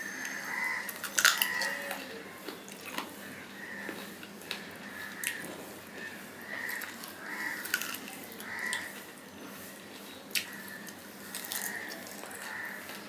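Close-up eating sounds of a man eating by hand: moist chewing and lip smacks recurring about once a second, with a few sharp clicks as his fingers gather food from a steel plate.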